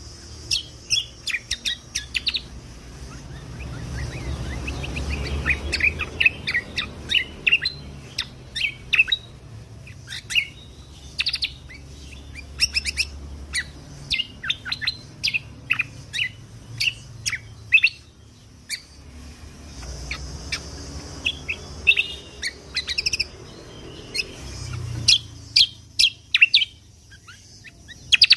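Kecial kombok (cucak kombo) singing: rapid clusters of short, sharp, high chirps and piercing shot-like notes, with brief pauses, over a faint low rumble in the background.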